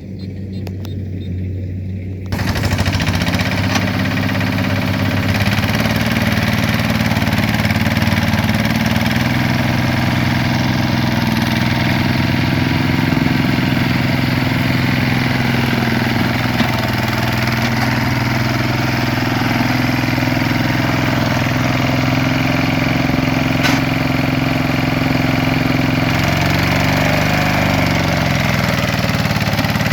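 Truck engine running low at first. About two seconds in it suddenly gets much louder and fuller, then runs steadily, with its pitch shifting near the end.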